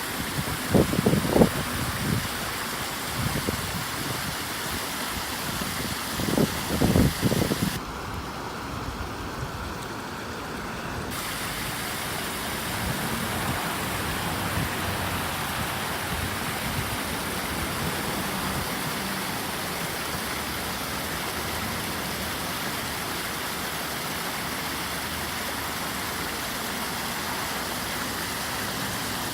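Waterfall pouring steadily, a constant rushing noise. A few loud low thumps come in the first eight seconds, and the hiss of the rush dulls for about three seconds a little later.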